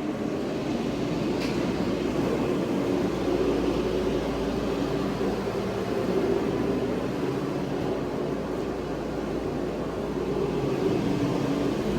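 Gas space heater running with a steady whooshing hum.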